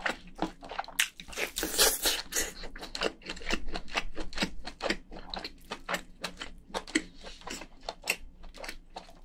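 A person chewing crayfish meat up close: a rapid, wet run of smacking clicks, loudest around two seconds in.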